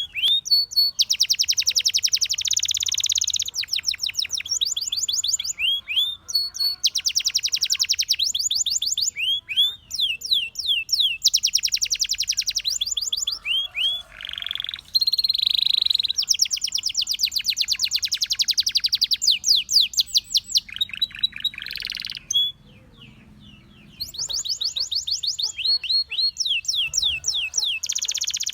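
Domestic canary singing: phrases of rapid, evenly repeated high notes (trills), each a second or two long, with short breaks between them and a longer pause about three quarters of the way through.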